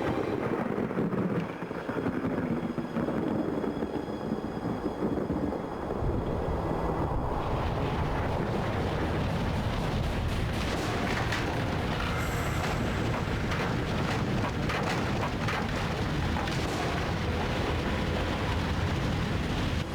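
Dramatized tornado sound effect: a continuous rumbling roar of wind with crashes, growing louder and harsher about six seconds in.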